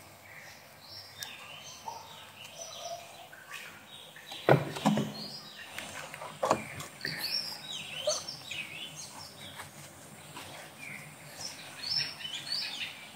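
Birds chirping and calling in short rising and falling whistles throughout, with a few sharp knocks, the loudest about four and a half seconds in and another about two seconds later.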